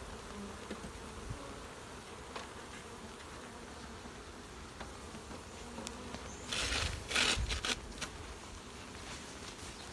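Honeybees from a newly installed package buzzing around the open hive. About two-thirds of the way in comes a short burst of loud rustling and knocking.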